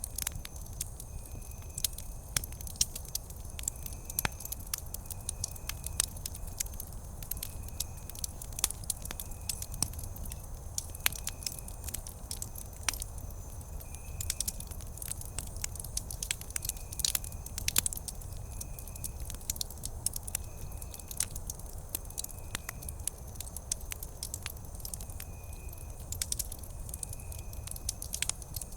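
Wood campfire crackling, with frequent sharp pops of varying loudness over a low, steady rumble. A short, high tone repeats about once a second in the background.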